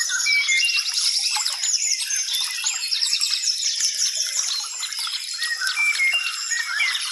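Several birds singing at once: overlapping chirps, short whistled slurs and fast trills, over a steady high hiss.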